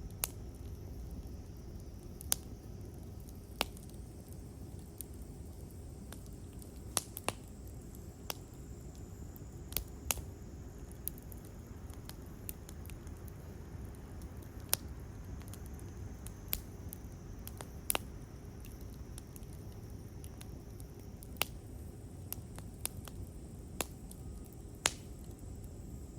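Wood campfire crackling: sharp, irregular pops every second or so over a low steady rumble.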